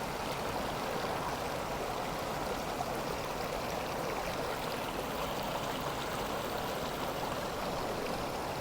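A swollen river flowing, a steady even rush of water.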